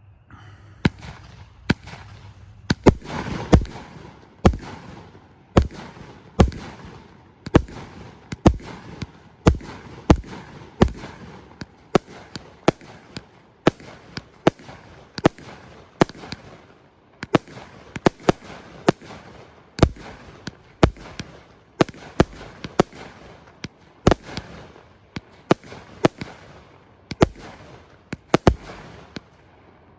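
100-shot firework cake firing in a steady string of sharp bangs, about two a second, with noisy crackle between them.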